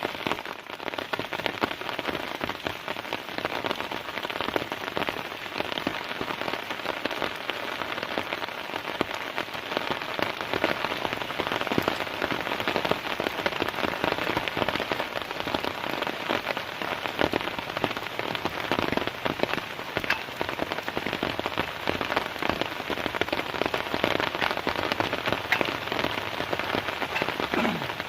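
Heavy rain falling steadily, a dense, unbroken hiss of countless drops striking a surface.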